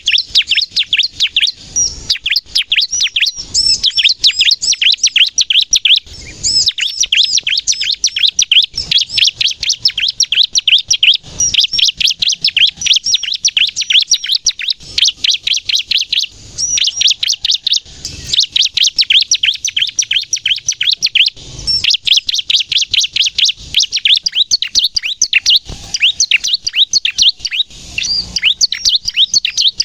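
Bar-winged prinia (ciblek) in full, vigorous song: long runs of rapid, sharp, high-pitched chirping notes, broken by brief pauses every few seconds.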